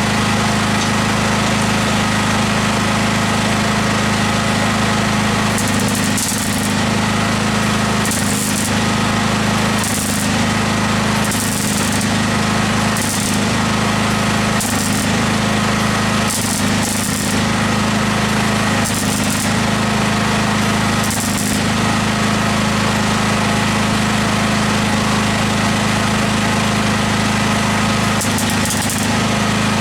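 MIG welding in short bursts, each a brief crackling sizzle one to two seconds apart, typical of tacking or filling small holes with weld, over a steady machine hum.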